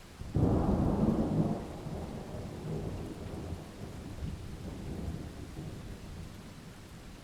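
A thunderclap that breaks suddenly a moment in and rolls on, fading over several seconds, over steady heavy rain.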